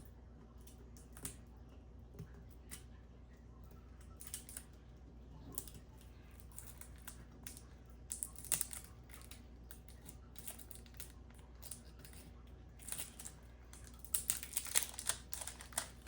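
Packaging of ceiling fan blades being handled and opened: scattered rustles and small clicks, turning to denser crinkling and tearing in the last few seconds.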